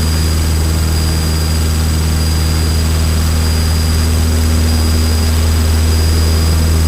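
Cessna 152's four-cylinder piston engine and propeller running at steady climb power, heard from inside the cockpit as a loud, even drone with a thin high whine above it.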